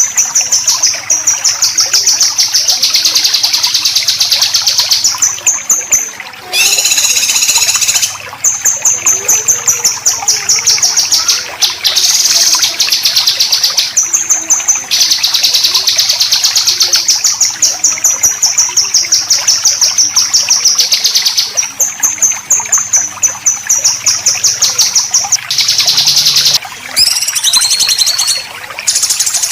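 Songbird singing besetan: long runs of very fast, rapidly repeated high rattling notes, broken every few seconds by short pauses and a few varied phrases. A faint trickle of water runs behind it.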